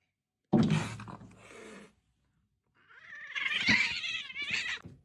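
A cat yowling in a long call that wavers up and down, from about three seconds in until near the end. It follows a sudden loud noise about half a second in that fades over a second or so.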